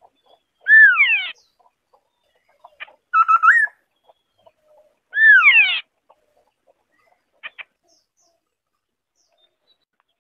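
White-browed scimitar-babbler singing: three short, clear whistled phrases about two seconds apart, the first and last sliding down in pitch, with a shorter, more level phrase between them.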